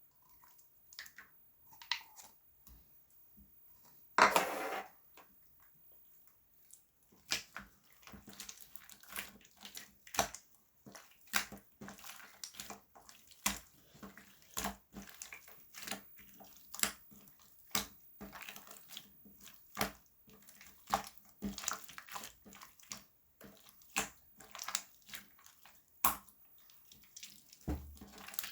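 Slime being squished and poked by hand, making wet, irregular clicking and popping sounds, a few per second after the first several seconds, with one louder squelch about four seconds in.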